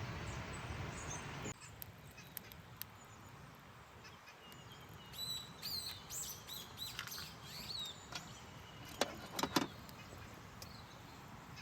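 Birds chirping with short, quick calls through the middle, and two or three sharp clicks about nine seconds in. A steady hiss at the start cuts off abruptly after about a second and a half.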